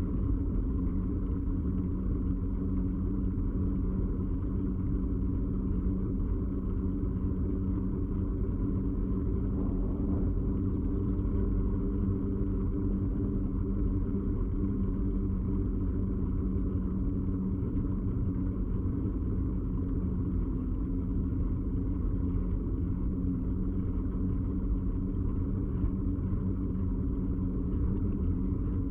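Ride noise from a bicycle, picked up by a camera fixed to the frame: a steady low rumble with a constant droning hum.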